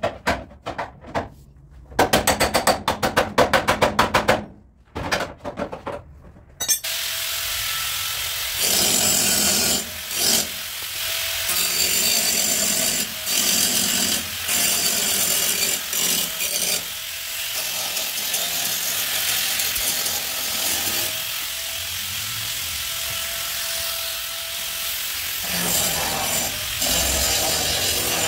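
A fast run of even strikes, about eight a second, then a power tool running steadily on car bodywork from about a quarter of the way in, with brief dips as it eases off the work.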